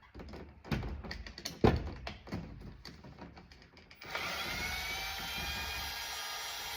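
Clicks and knocks of handling, with one sharp knock a little under two seconds in. About four seconds in, an electric drill/driver starts and runs with a steady high whine for nearly three seconds, backing screws out of a truck door panel, then stops abruptly.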